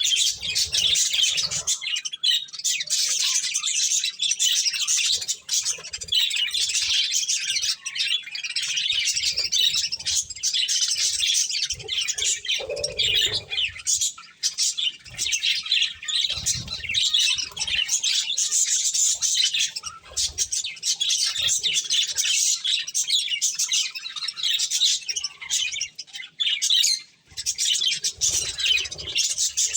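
A flock of budgerigars chattering and chirping continuously, a dense high warbling with occasional soft low thumps and knocks.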